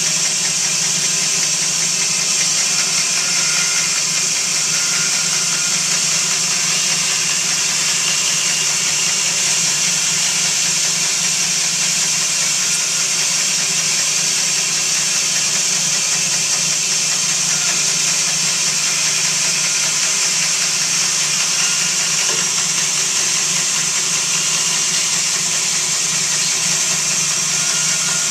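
Electric power saw running steadily while cutting out a piece of the feeder's top.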